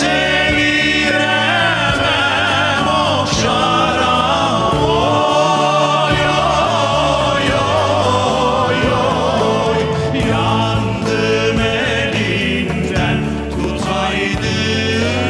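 Men's voices singing a folk song (türkü) together with vibrato, over an instrumental accompaniment.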